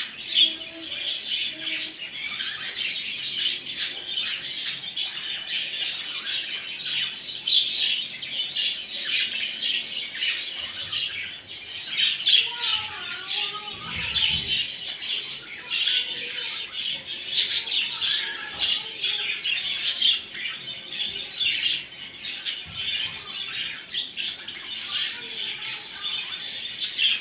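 A flock of budgerigars chattering and warbling continuously, a dense mix of chirps, squeaks and clicks. There is a brief low thump about halfway through.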